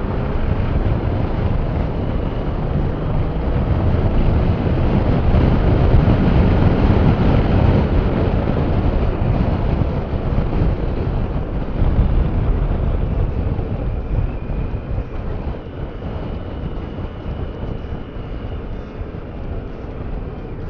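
Motorcycle running at road speed, its engine buried in heavy wind rush on the microphone. It grows louder over the first several seconds, then slowly eases off.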